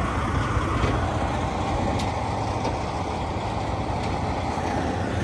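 Semi truck's diesel engine running steadily with a low rumble, with a couple of faint clicks about two seconds in.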